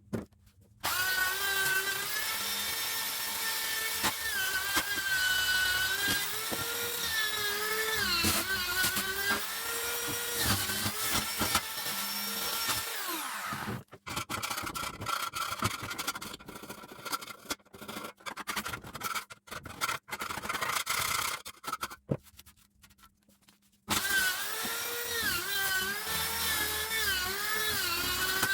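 Small handheld power tool motor whining, its pitch dipping and recovering as it is pressed into work. It runs steadily, then in short on-off spurts, pauses for a couple of seconds, and starts again near the end.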